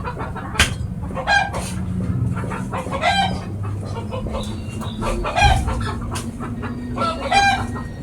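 Chicken clucking, short pitched calls about every two seconds, over a steady low hum.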